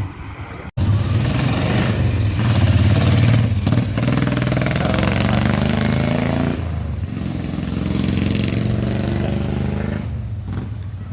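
Mazda B600's engine running and being revved, its note rising and falling, after a brief cut-out under a second in.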